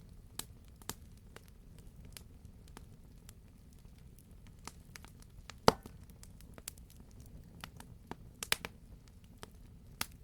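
Wood fire crackling in a fireplace: scattered sharp pops and snaps over a low, steady rumble of the flames. The loudest pop comes a little past halfway, and a quick run of three pops follows about two seconds later.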